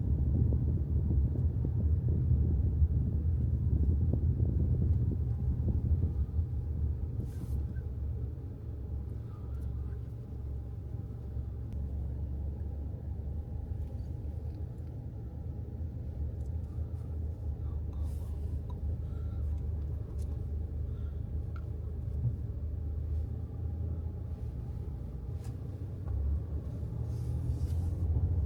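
Low, steady rumble of a vehicle on the move, like road and engine noise in a moving car. It is heavier for the first seven seconds or so, then eases off.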